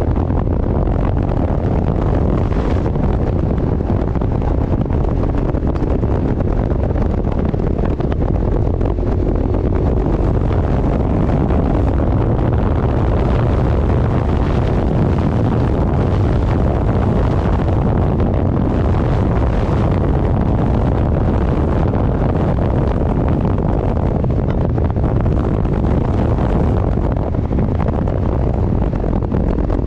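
Heavy wind rush on the microphone at road speed, over a vehicle's engine running steadily.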